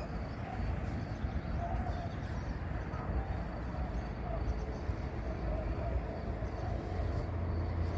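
Peugeot 3008 Hybrid's 1.6-litre petrol engine idling steadily as a low rumble, with faint bird chirps over it.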